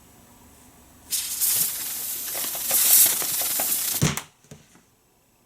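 Film sound effect of a giant snake monster hissing: a loud hiss that starts about a second in and lasts about three seconds. It ends in a low thump, with a couple of small knocks after it.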